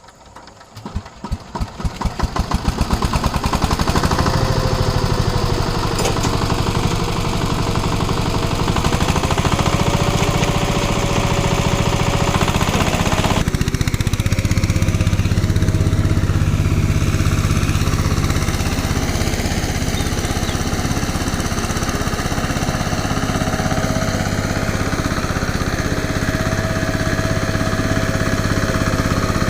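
An engine starts up, its pulses quickening and growing louder over the first few seconds, then runs steadily with a whine that rises and falls in pitch. The sound changes abruptly about 13 seconds in, then runs on steadily.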